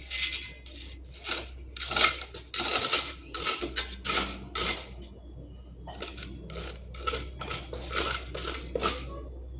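A series of short scraping strokes with a metallic clatter, roughly one to two a second and uneven, from a hand tool at work.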